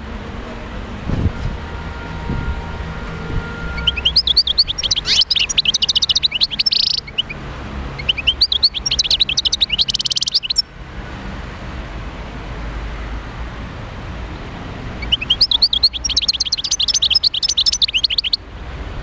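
European goldfinch singing: three bouts of rapid, liquid twittering, each a few seconds long, over a steady low hum.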